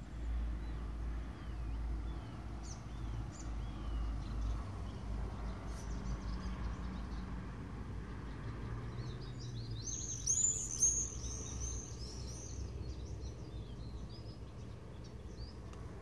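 Songbirds singing: scattered faint chirps, then about ten seconds in a loud, quick run of high notes lasting about two seconds. A low steady rumble runs underneath.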